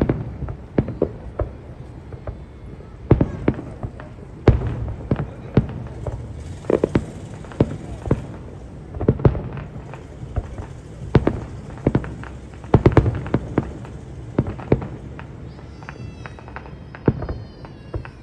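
Fireworks bursting overhead: a dense, irregular string of sharp bangs, one or two a second, over a steady low rumble.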